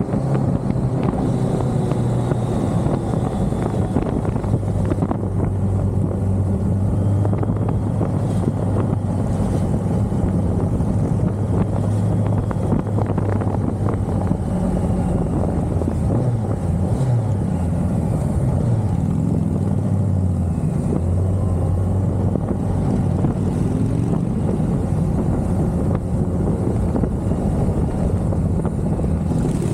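Motorcycle engine running steadily on the move, with wind rushing over the microphone; the engine pitch drops and rises a few times as the speed changes.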